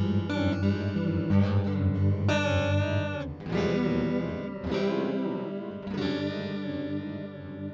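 Electric guitar played through a JHS 3 Series Flanger pedal, the flanger's slow sweep swirling through the tone. Chords are struck about a second apart, and the last one is left to ring and fade near the end.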